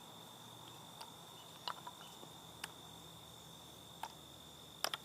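Faint, steady, high-pitched insect trill, likely a cricket, running unbroken, with a few soft clicks scattered through it.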